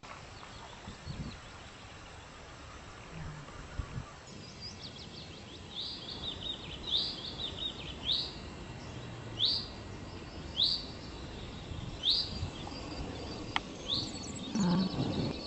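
Wild bird calling repeatedly, short high sweeping notes about once a second, over faint outdoor background noise, with a brief low rumble near the end.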